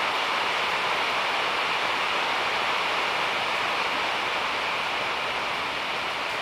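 Heavy rain falling steadily on a car and the wet ground, an even hiss of rainfall with no single drops standing out.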